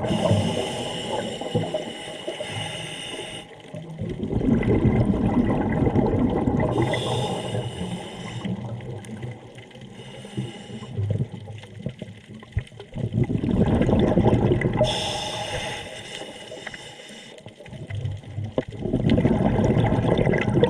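Scuba diver breathing underwater through a regulator: a hissing inhale, then a long rush of exhaled bubbles, repeating about three times.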